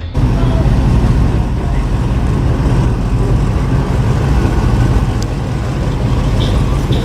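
A car engine running steadily with a low rumble, cutting in abruptly at the start.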